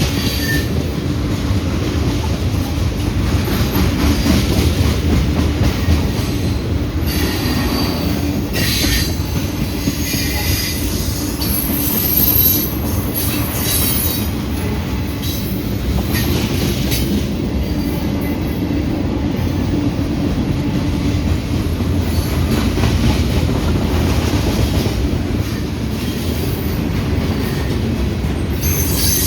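Freight train rolling past: a steady rumble of steel wheels on the rails, with stretches of high-pitched wheel squeal coming and going about a third of the way in and again near the end.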